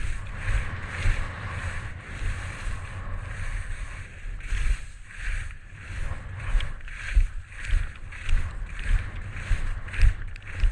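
Skis scraping and swishing over closely spaced moguls, one turn after another, about two a second, with wind rumbling on the microphone.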